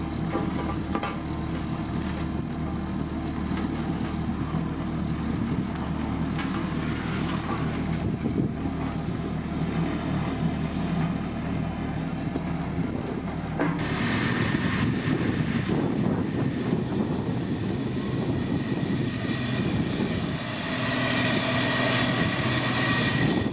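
Heavy diesel road-construction machinery running steadily with a low engine rumble. About 14 seconds in, a louder, hissier layer comes in, and a high whine rises over it near the end.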